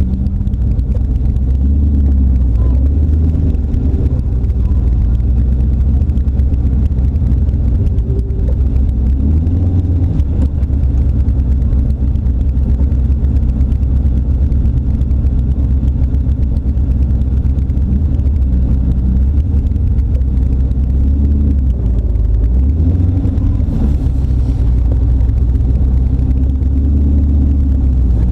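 AC Cobra's turbocharged LS1 V8 running at low revs with a deep, steady rumble, heard from the open cockpit as the car creeps along. The engine note shifts briefly a couple of times as the throttle changes.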